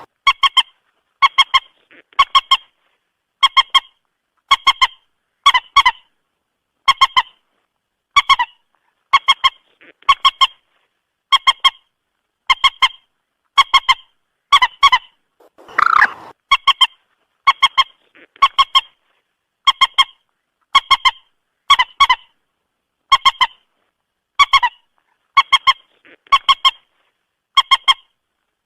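Moorhen calling: short, clucking honks repeated about once a second, with near silence between them. A longer, harsher call comes about halfway through.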